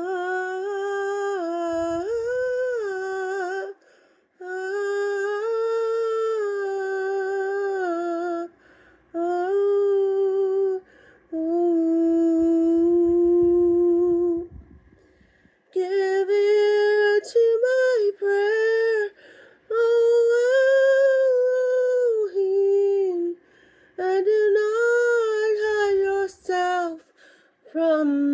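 Solo female mezzo-soprano voice singing a slow wordless melody, unaccompanied, in phrases of a few seconds with short breaths between them and a gentle vibrato.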